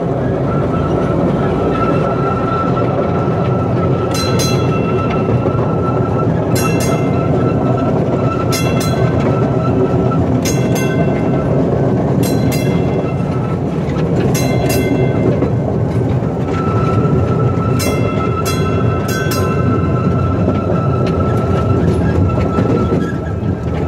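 Open passenger car of a small park railway rolling along the track: a steady rumble of wheels on rail with a thin, steady whine. From about four seconds in, wheels clack with a short metallic ring every couple of seconds.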